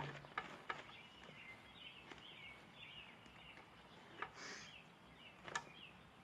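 A bird singing faintly, a run of short warbling notes, with a few sharp clicks of handling noise.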